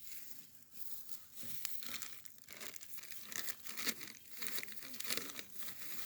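Crinkling and rustling of something being crumpled or handled, with many small sharp crackles.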